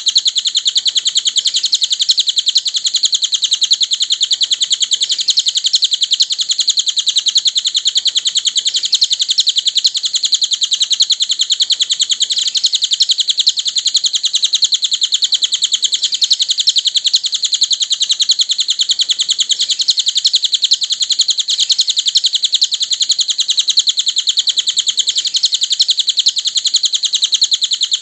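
Cililin birdsong: a continuous, fast, high-pitched chattering of rapid chirps that runs on without pause.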